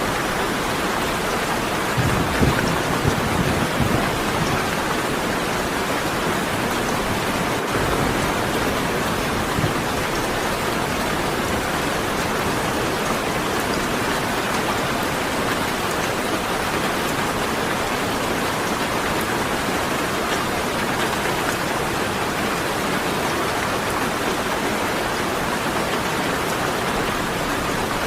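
Steady rain falling, with a low rumble of thunder about two to four seconds in.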